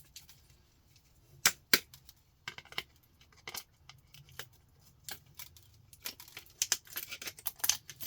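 Scattered sharp clicks and small clinks of hand tools and small electronic parts being handled as a computer power supply board is stripped for its copper-wound components; the clicks come faster in the last two seconds.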